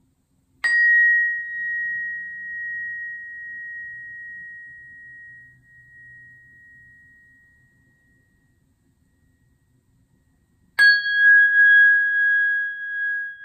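Tuning fork struck, ringing one clear high tone that slowly fades away over about eight seconds. About ten seconds in, a second, slightly lower-pitched tuning fork is struck and rings louder and steady.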